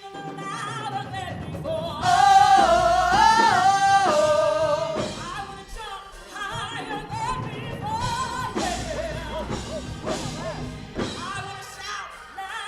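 Gospel praise-and-worship music: a lead singer's voice held and sliding over sustained notes, with instrumental accompaniment underneath. The voice is strongest a couple of seconds in.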